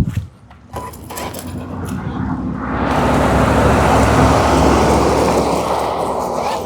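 Redcat Volcano EPX RC truck running on its stock brushed 540 motor, driven off a 3S LiPo, motor and tyres on asphalt. The noise builds over about two seconds and then holds steady and loud.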